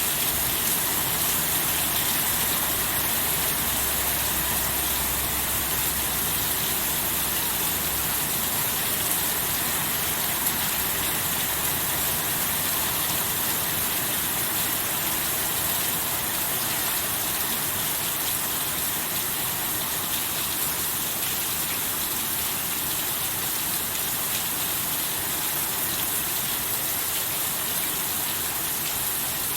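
Steady heavy rain, a dense even hiss of falling water, with a faint low rumble between about four and eight seconds in.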